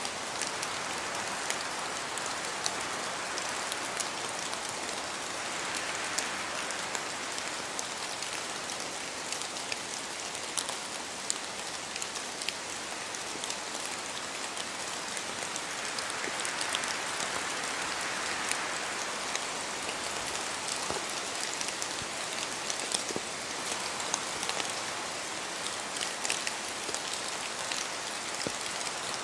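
Steady rain in a forest, with many individual drops ticking sharply through the hiss as they fall from the trees. The rain noise swells twice, about six and about seventeen seconds in.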